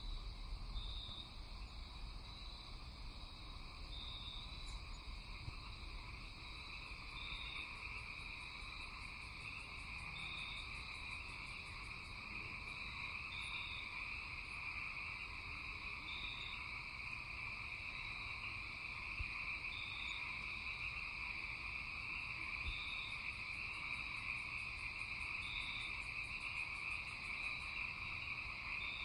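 Night chorus of insects and frogs: a steady high trilling drone with a short high call repeating every couple of seconds, and stretches of fast, very high ticking.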